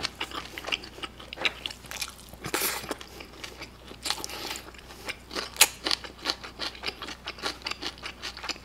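A person chewing close to the microphone: a quick run of wet smacking clicks and crunches from mouthfuls of cheese-topped fried pork in kimchi sauce, rice and a cube of pickled radish.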